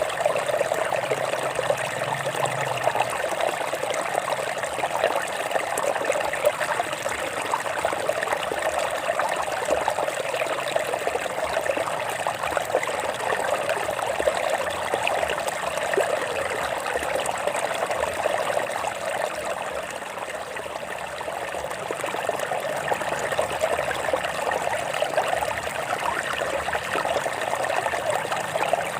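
Stream water running and trickling over rocks, a steady babbling flow that dips slightly for a moment about two-thirds of the way through.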